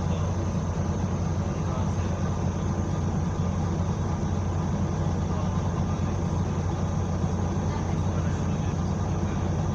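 Bus WVL433's engine running with a steady low drone and no change in pitch.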